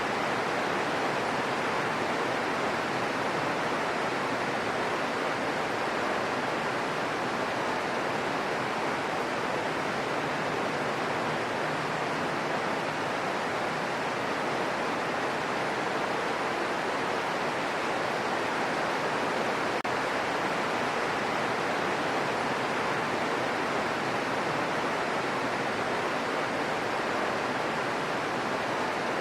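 Steady rain falling on a forest, an even hiss with no separate drops or changes.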